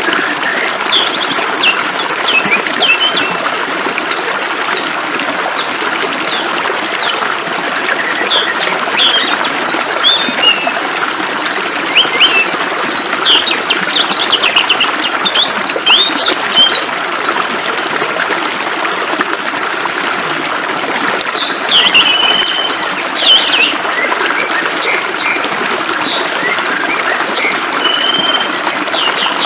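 Many birds chirping and trilling over the steady hiss of flowing water.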